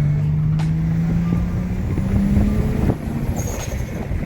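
BMW N55 turbocharged inline-six with a custom exhaust accelerating, its deep note rising slowly in pitch, then dropping away suddenly about three seconds in as the throttle is let off or a gear is changed.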